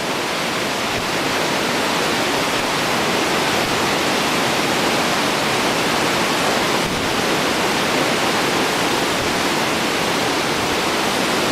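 Steady rushing of Victoria Falls, a large waterfall, swelling slightly over the first couple of seconds and then holding even.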